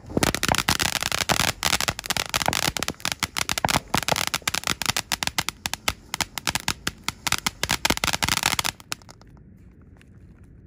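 Miracle Fireworks Rainballs ground fountain burning: a dense hiss of sparks with rapid, crackling pops as it throws its glowing balls, cutting off about nine seconds in, followed by a few scattered pops.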